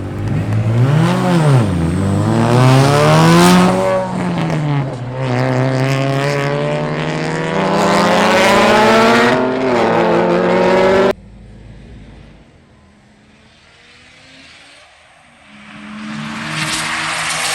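Car engine at full throttle in a roll race: its pitch climbs, drops at a gear shift about four seconds in, then climbs again. The sound cuts off abruptly about eleven seconds in, and the engine noise is much quieter until another engine rises near the end.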